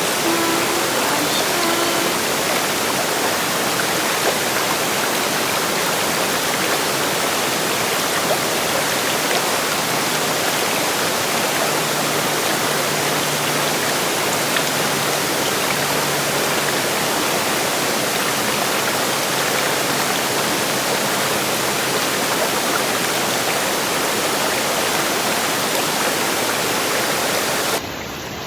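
River water rushing, a steady loud noise that drops abruptly to a quieter level just before the end.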